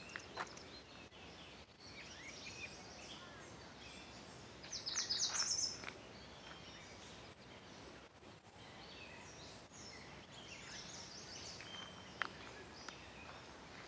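Wild birds singing and calling outdoors, with scattered chirps and whistled notes. The loudest is a quick trill of rapid high notes about five seconds in.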